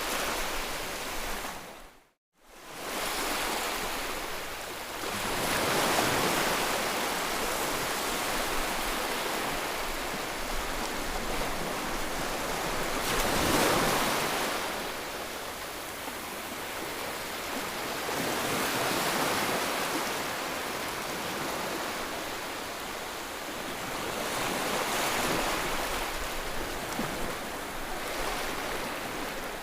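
A steady rushing noise played to soothe a colicky baby, swelling and ebbing like ocean surf every six seconds or so. It drops briefly to silence about two seconds in.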